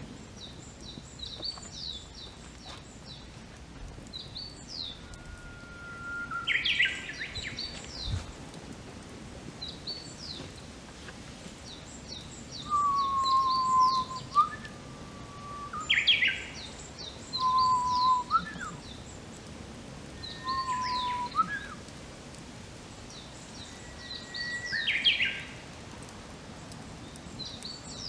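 Wild birds singing. One bird repeats a phrase several times, each a long whistled note ending in a quick rising flourish. Behind it, another gives rapid series of short, high chirps.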